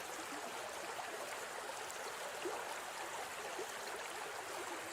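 Steady rush of a flowing stream, with light bubbling and trickling water throughout.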